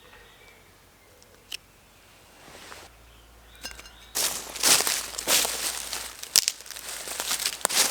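Dry leaf litter crunching and rustling, starting loud and irregular about halfway through after a quiet opening, with a few sharp snaps.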